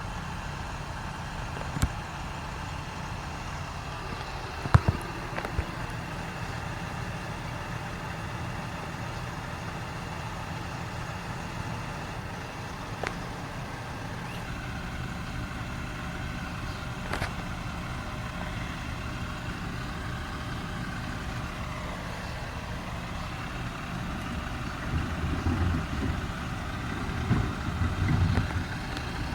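Garbage truck's diesel engine running steadily at idle, with a few sharp knocks. The engine grows louder and rougher for a few seconds near the end.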